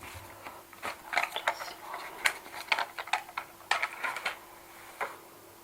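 Cash register being operated: an irregular run of sharp clicks and rattles from its keys and mechanism, bunched in the middle with a last click near the end.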